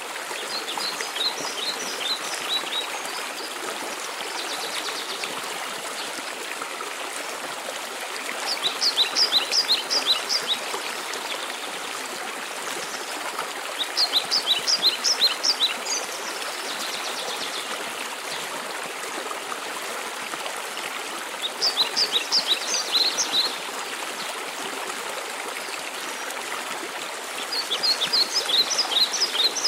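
Steady rush of cascading water from a mountain waterfall. A songbird sings over it, repeating a short phrase of rapid high notes about every six seconds, five times in all.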